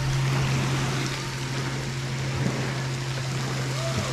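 Running water, an even rushing hiss, over a steady low hum.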